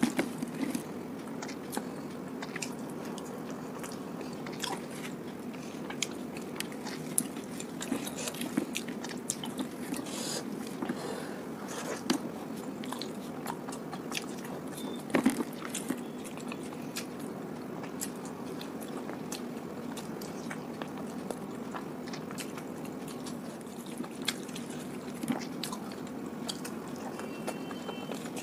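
Eating sounds from fried luchi flatbread with curry: chewing and biting with many short wet clicks and smacks, a few of them louder.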